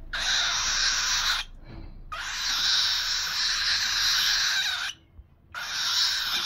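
Pet parrot hissing in three long, breathy bursts with short pauses between them: a defensive, angry hiss at a hand.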